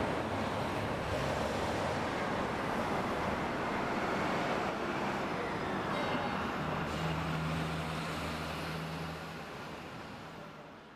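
Road traffic noise: a steady rush of passing vehicles with an engine humming low, the hum growing stronger about two-thirds of the way in. The sound fades out near the end.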